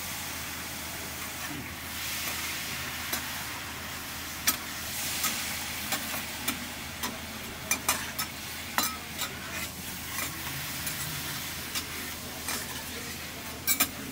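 Horumon (offal) sizzling as it cooks, a steady frying hiss. Over it come many sharp clicks and taps of cooking utensils, coming more often after about four seconds in.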